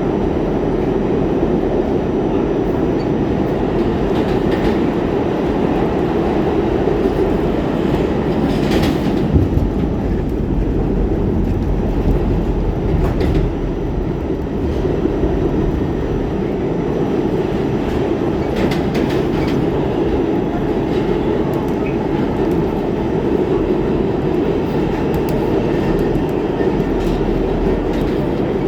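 R46 subway train running along the track: a steady loud rumble of wheels and motors, with a few sharp clacks scattered through it.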